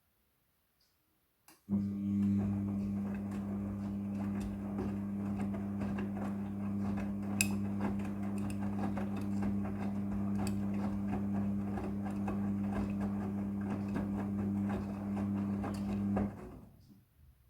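Midea front-loading washing machine making a steady low hum with a rattling, water-like noise over it. The hum starts about a second and a half in and cuts off abruptly near the end.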